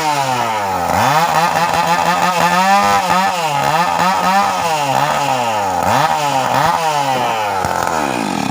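Stihl two-stroke chainsaw engine being revved up and down, its pitch dropping and climbing back several times as the throttle is blipped.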